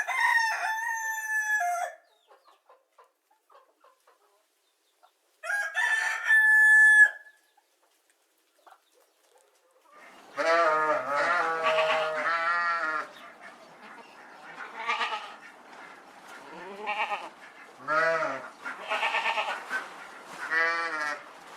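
A rooster crowing twice, each crow about two seconds long. About halfway through, a run of repeated bleats begins.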